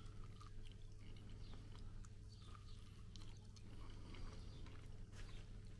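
Faint sounds of a person biting and chewing a barbecue-sauced pork mini rib, with small wet clicks of eating over a steady low hum.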